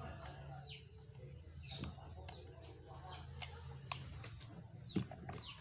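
A small bird chirping repeatedly, short chirps that fall in pitch about twice a second, with faint chicken clucking in places.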